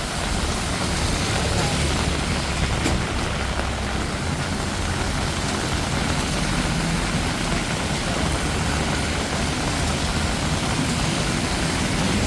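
Heavy rain pouring steadily, with a low rumble of road traffic underneath.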